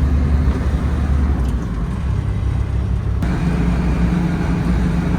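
A motor vehicle's engine running steadily with a low rumble. About three seconds in, the tone shifts to a steadier hum.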